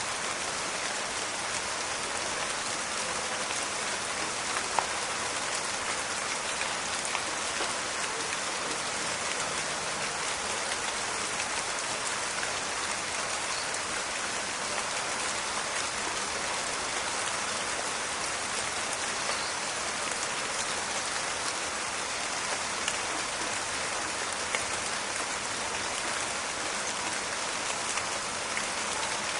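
Steady rain falling in a forest, a continuous hiss with a dense crackle of drops, and a few louder single drips standing out now and then.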